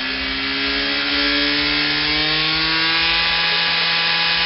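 Truck engine revved hard and held at high revs through its exhaust, the pitch climbing slowly over the first few seconds and then holding steady.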